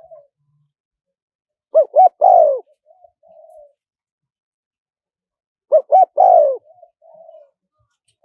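Spotted dove cooing: two phrases about four seconds apart, each two short coos followed by a longer coo falling in pitch, then a few softer trailing notes.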